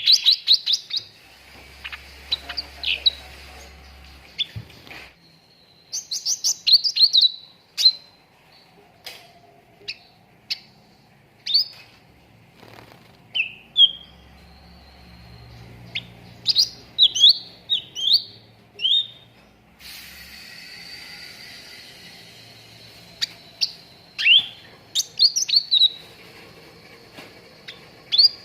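Cucak ranting bulbul calling: runs of short, sharp chirps and quick whistled notes, with pauses of a second or more between runs. The background hiss changes abruptly a couple of times, as in a recording spliced from several clips.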